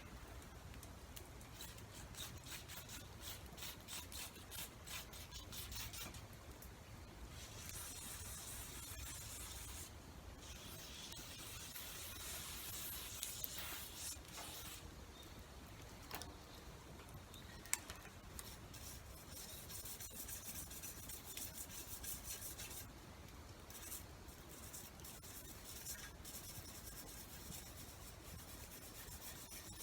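Hand tool being rubbed down with quick, repeated rasping strokes, as in filing or scrubbing a tool during tool maintenance. The strokes come in runs, with stretches of steadier hiss between them.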